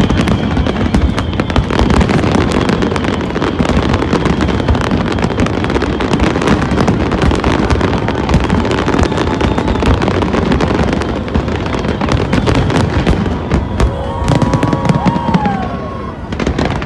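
Aerial fireworks display going off continuously: dense, rapid crackling and cracking over a steady rumble of bursting shells. Near the end a few whistling tones come in, some falling in pitch.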